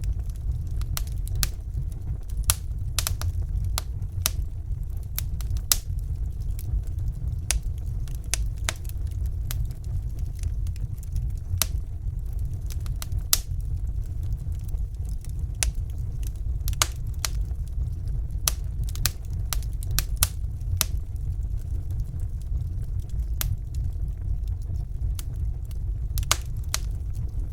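Wood fire burning in a fireplace: irregular sharp crackles and pops, sometimes several a second, over a steady low rumble.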